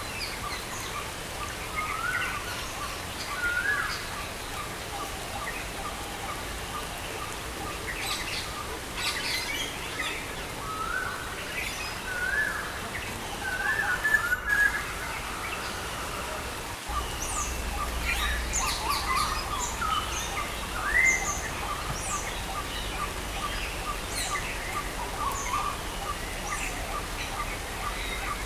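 Several songbirds chirping and calling: short high chirps and quick upward-sweeping notes, with a series of short even pips running underneath. A steady hiss of rain lies beneath it all.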